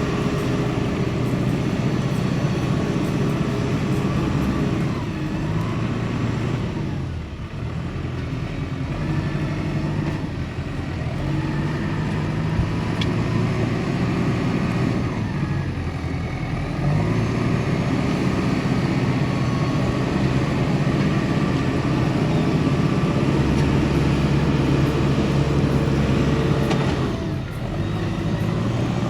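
New Holland T5060 tractor's diesel engine running under working load. Its pitch and level sag and recover three times.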